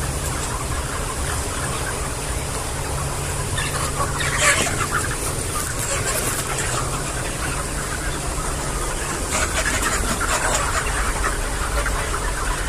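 Flock of chickens clucking and calling, busiest about four seconds in and again near the end, over a steady low hum.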